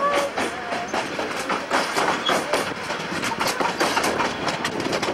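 Miniature railway train running along the track, heard from aboard a carriage: a steady rumble with irregular clicking and rattling of the wheels over the rails.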